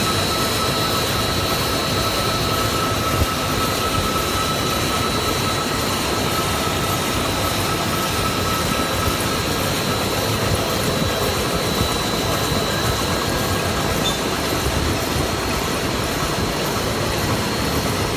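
Remote-controlled grinder running steadily, a dense machine noise with a faint high whine held over it.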